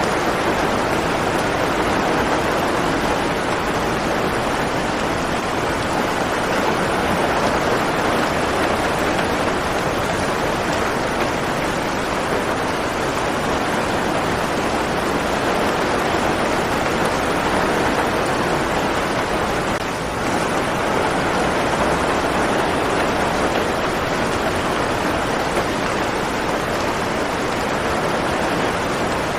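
Steady downpour of rain, an even rushing hiss with no distinct drops or thunder, dipping slightly for a moment about twenty seconds in.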